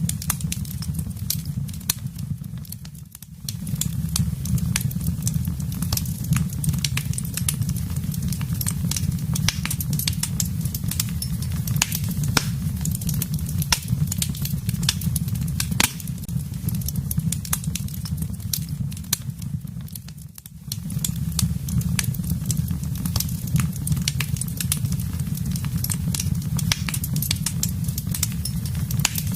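Wood fire crackling in a fireplace: a steady low rumble with frequent sharp pops and snaps throughout. The sound dips briefly twice, about three seconds in and about twenty seconds in.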